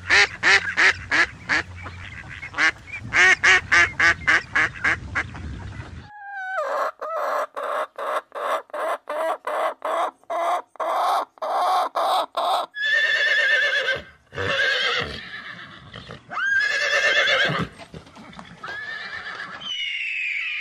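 Bird calls in three runs. Mallard ducklings and a duck call in quick repeated notes for about the first six seconds. Then a hen clucks in an even rhythm, about three clucks a second. From about two-thirds of the way in come longer, wavering screeching calls from a Steller's sea eagle.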